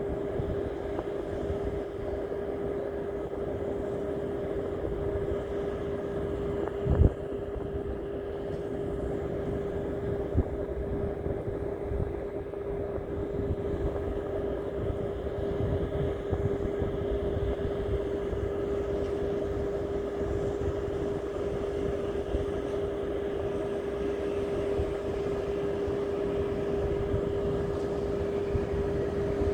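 A steady mechanical hum, one unchanging tone over a low rumble, like a motor running, with a single knock about seven seconds in.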